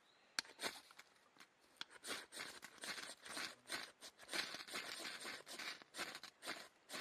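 A run of short crinkling and tearing sounds, some dozen quick bursts, from something being handled and torn up close.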